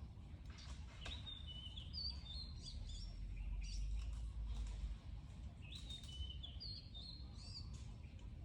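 A small bird chirping: two bursts of short, high, quickly gliding notes over a low, steady outdoor rumble.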